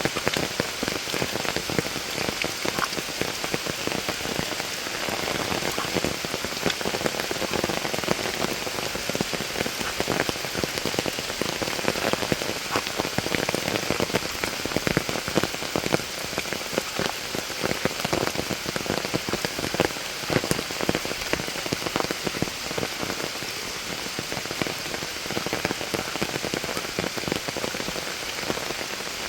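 Steady monsoon rain falling hard, with many individual drops striking close by as sharp ticks over an even hiss.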